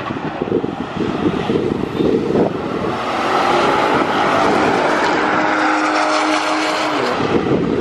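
Chevrolet Corvette V8 at full throttle on a drag-strip pass, going by the trackside fence. The engine note holds steady and loud for several seconds.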